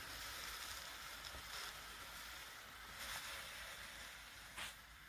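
eufy L60 robot vacuum running quietly with a faint steady hiss, making its way back to its self-empty dock, with a brief click near the end.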